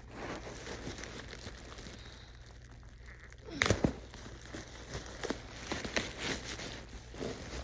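Packaging being unwrapped by hand: crinkling and tearing, with a louder burst of crackling about halfway through.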